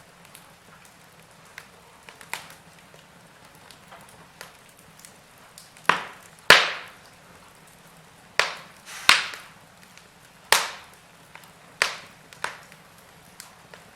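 Wood fire crackling in a fireplace: sharp, separate pops and snaps over a low, steady background, with a run of louder pops from about six seconds in, the loudest near six and a half seconds.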